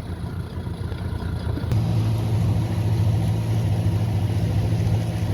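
Small boat's motor running steadily under way, its low hum stepping up in level about two seconds in.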